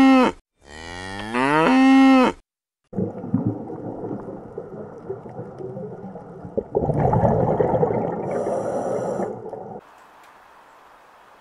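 A Holstein dairy cow mooing: the end of one long low moo, then a second moo of about two seconds. Then comes several seconds of rushing, crackling underwater noise, louder in its second half, which cuts off about ten seconds in, leaving a faint hiss.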